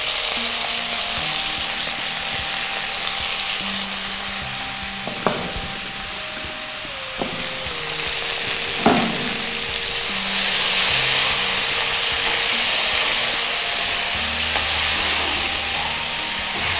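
Chopped mixed vegetables frying in coconut oil in a wok, a steady sizzle that grows louder about ten seconds in, with a few sharp knocks. Soft background music with held notes plays underneath.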